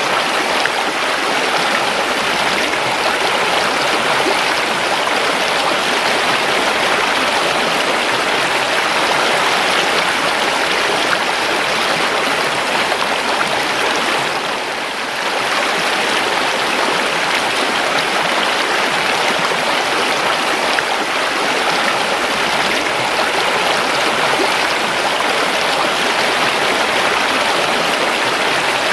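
A river flowing steadily, a continuous rush of running water that briefly softens about halfway through.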